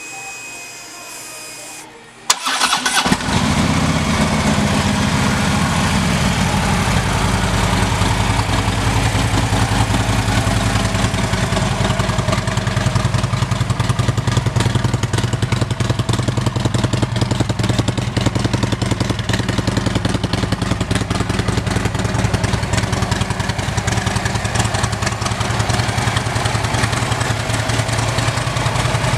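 Harley-Davidson 103 cubic inch V-twin with a Vance & Hines exhaust starting about two seconds in, after a faint hum, then idling steadily and loudly through the exhaust.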